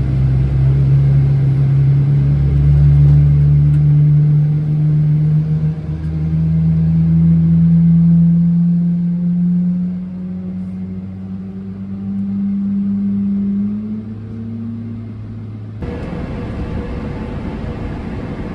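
Jet engine of a Boeing 777-300ER spooling up: a loud, low drone that climbs slowly and steadily in pitch for about fourteen seconds over a deeper hum. Near the end it gives way abruptly to a steadier cabin hum.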